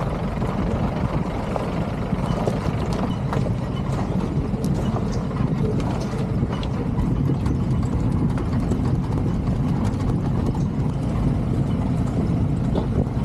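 Tata small truck converted into an open-backed safari vehicle driving over a rough dirt track. The engine runs steadily while the body rattles and knocks over the bumps.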